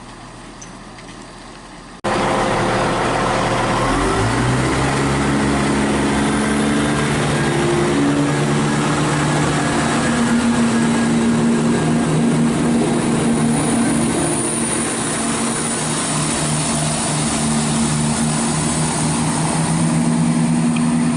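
CrossCountry Class 170 Turbostar diesel multiple unit's underfloor diesel engines powering up as it pulls away from the platform. The engine note rises in pitch a few seconds in and then settles into a steady loud drone, with a faint high whine above it in the later part.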